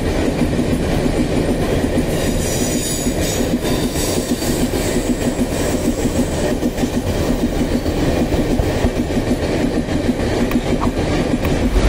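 Empty iron-ore gondola wagons of a freight train rolling past, their steel wheels clattering steadily over the rails. Faint high wheel squeals come in a few seconds in.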